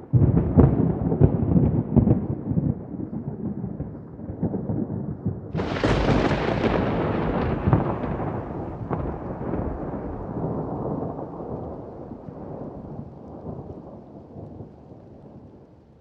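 Thunder: a loud rumbling peal starts suddenly, then a second, sharper crack about five and a half seconds in rolls off into a long rumble that slowly fades.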